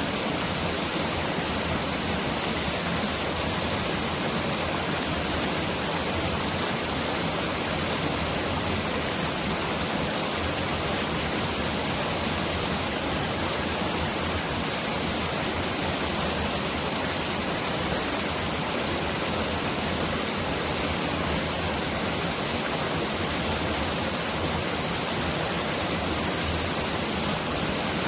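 Mountain valley stream rushing over rocks: a steady, dense wash of water noise, even throughout, much like heavy rain.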